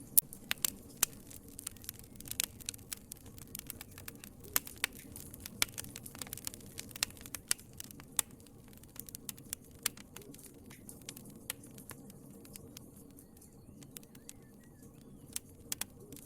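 Wood fire crackling in a fireplace: irregular sharp pops and snaps over a low steady hiss of the flames. The pops come thick in the first ten seconds, then thin out to a few scattered snaps.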